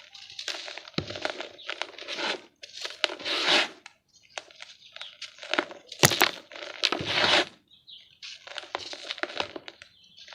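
Dry, gritty yellow dirt crumbling and crunching in irregular bursts of crackle with sharp snaps. The sharpest snap comes about six seconds in, and there are short pauses between the bursts.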